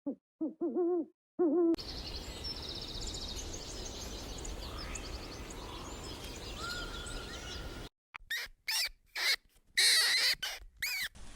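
An owl hooting, three or four short calls that fall in pitch. A cut then brings a few seconds of outdoor birdsong with high chirps and trills. Near the end comes a quick run of loud, high-pitched squeaky animal calls.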